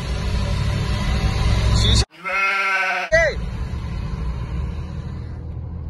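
Engine and road drone inside the cabin of a Ford Figo with its 1.2-litre petrol engine under hard acceleration in a drag run. About two seconds in, the drone cuts out for roughly a second while a wavering, high-pitched, bleat-like call sounds. Then the cabin drone resumes.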